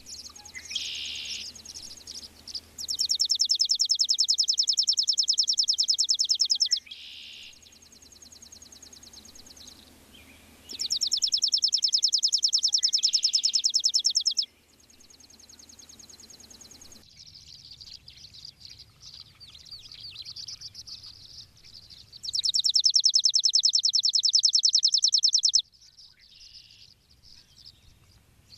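Chipping sparrow singing: three long, rapid trills of evenly repeated high notes, each lasting about four seconds, with fainter bird chirps between them.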